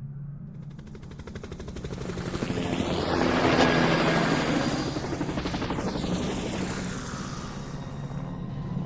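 Helicopter flying past, its rotor chop swelling to loudest about three to four seconds in and then easing off with a falling pitch, over a steady low hum.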